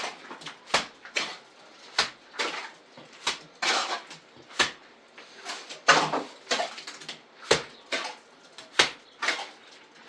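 Irregular run of sharp knocks or clinks of hard objects, about two a second, some trailing off in a short scrape.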